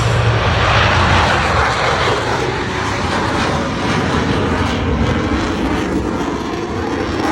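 Loud, steady roar of Blue Angels jet aircraft engines passing overhead, dropping off abruptly near the end.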